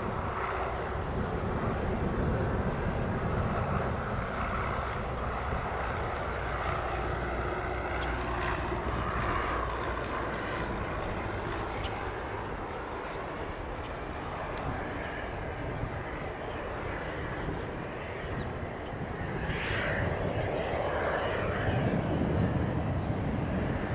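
Piper Archer's single piston engine and propeller running at low power, as when taxiing. The steady rumble eases a little in the middle and swells again toward the end.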